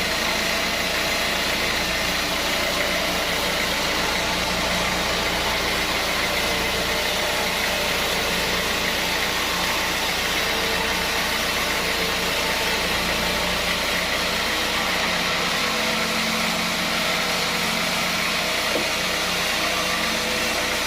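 Sawmill machinery running steadily: an even mechanical drone and hiss with no clear change in load.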